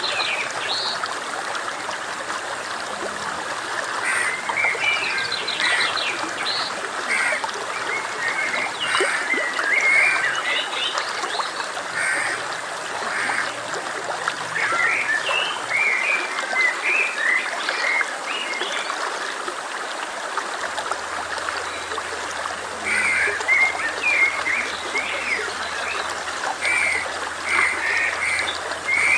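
Flowing stream with a steady rush of water, with short high-pitched animal calls in clusters over it throughout.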